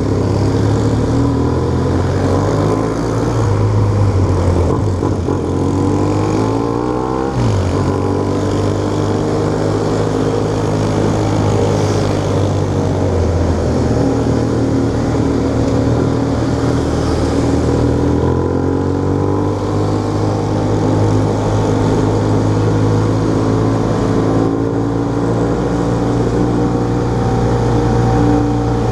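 Motorcycle engine running under way, its pitch slowly rising and falling with the throttle, over a steady rushing noise.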